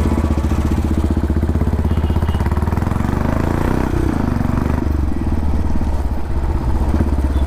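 Royal Enfield Classic 350 single-cylinder engine running through a custom dual exhaust, a steady low thump, with a brief rise and fall in pitch about three to five seconds in.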